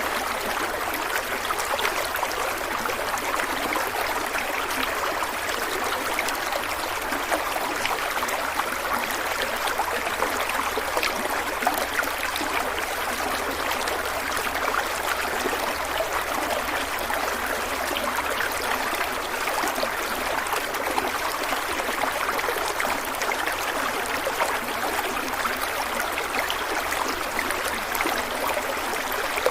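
Stream water flowing and trickling steadily over rocks, an even bubbling rush.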